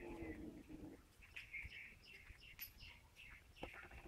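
Common myna calling: a low, hoarse pitched note in the first second, then faint scattered chirps and whistles.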